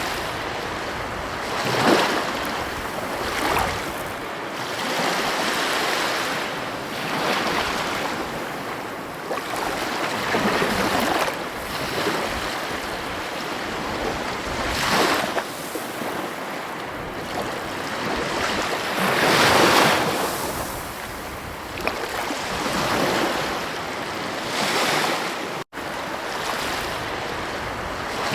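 Ocean surf breaking and washing on a beach: a continuous rush that swells every few seconds as each wave comes in. The sound cuts out for an instant about three-quarters of the way through.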